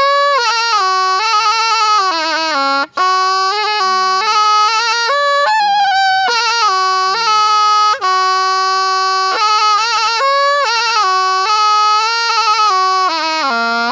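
Thai pi, a quadruple-reed oboe, playing a solo melody of long held notes and wavering ornaments, broken by two very short gaps about three and eight seconds in.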